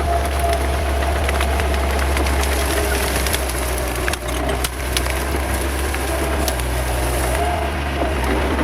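Bulldozer's diesel engine running steadily under load, with a few short sharp cracks and clanks scattered through the middle as it pushes through brush.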